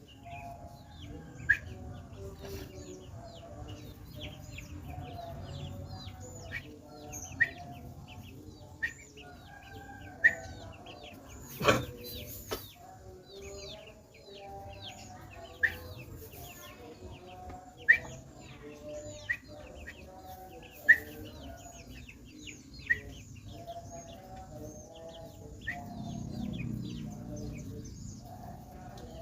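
Small birds chirping: about a dozen short, sharp high calls a second or two apart over many fainter chirps, with chickens clucking in the background.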